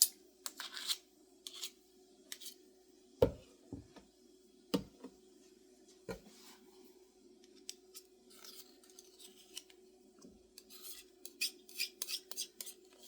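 Tablespoon tapping and scraping against a mixing bowl as a spoonful of shortening is knocked and scraped off into the flour: a few sharp taps, then lighter scraping and rubbing near the end. A faint steady hum runs underneath.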